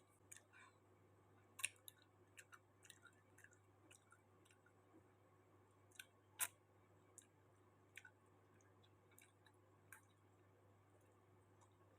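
Faint chewing: scattered small clicks and crackles of food in the mouth, the two loudest about a second and a half in and about six and a half seconds in, over near-silent room tone.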